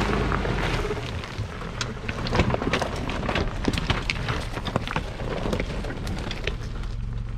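Off-road vehicle engine running low and steady while crawling over rough ground, with dense, irregular crackles and ticks on top.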